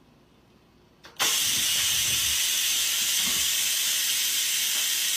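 A steady hiss, even and strongest in the high range, that starts suddenly about a second in after near silence.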